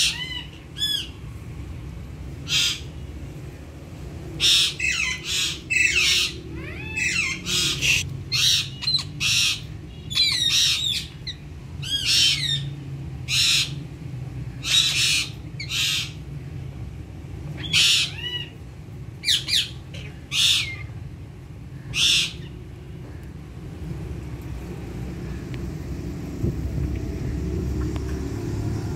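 Ringneck parrots squawking: a string of short, sharp, high calls, some bending up and down in pitch, that stops about two-thirds of the way in. A steady low rumble runs underneath and grows louder near the end.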